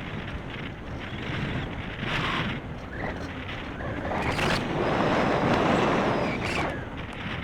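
Wind buffeting the microphone in gusts, swelling loudest from about four to six seconds in.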